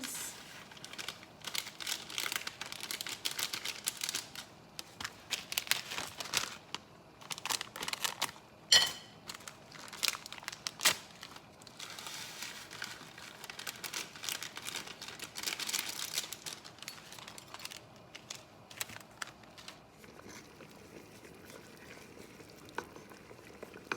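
A plastic or foil packet crinkling and rustling as it is handled, torn and emptied, with one sharp click about nine seconds in; the handling grows fainter in the last few seconds.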